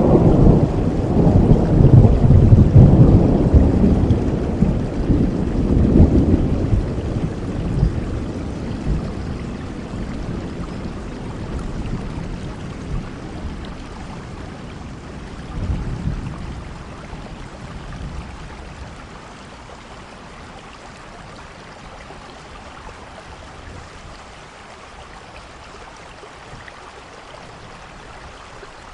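Steady rainfall with a long roll of thunder that is loudest in the first few seconds and dies away over the next fifteen or so, with a brief smaller rumble about halfway, leaving the even hiss of the rain.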